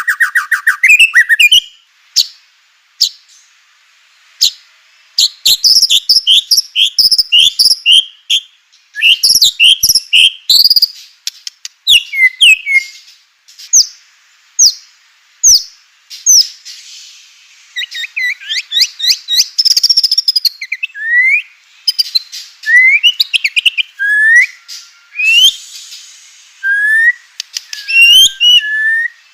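White-rumped shama (murai batu) singing loudly: a varied song of quick rising and falling whistled notes delivered in rapid runs, broken by short pauses and a few sharp clicking notes.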